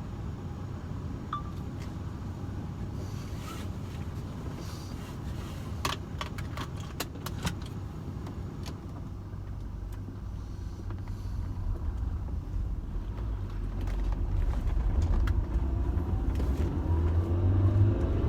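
Motor vehicle rumble with a cluster of sharp clicks and knocks about six to seven seconds in. In the second half the low engine and road rumble builds steadily louder.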